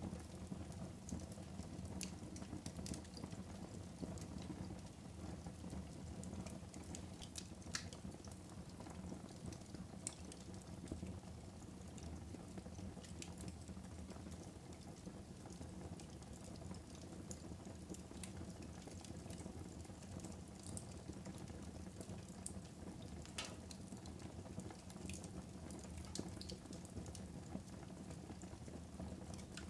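Wood fire burning in a fireplace: a steady low rumble with scattered crackles and pops, a few sharper snaps standing out.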